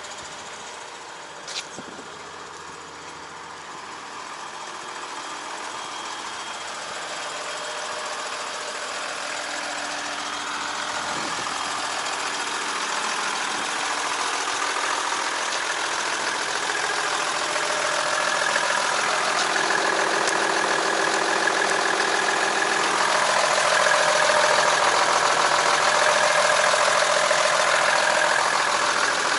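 Nissan ECO 160 light truck's engine idling steadily, growing gradually louder, with one sharp click early in.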